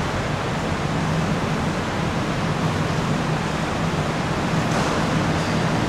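BTS Skytrain train standing at the platform, giving a steady rushing noise with a low hum underneath.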